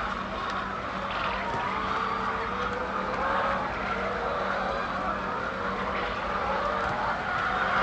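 A flock of chickens in a poultry house, many birds calling at once in a dense overlapping chorus of squeaky cries, over a steady low machine hum.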